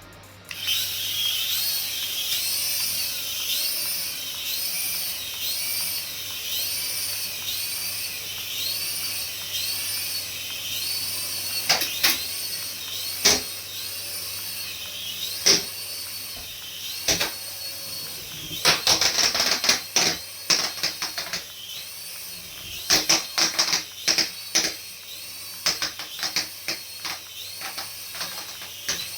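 Small battery-powered toy motor whining high, its pitch wavering up and down about once a second. From about halfway through, a run of sharp plastic clicks and knocks, some in quick clusters.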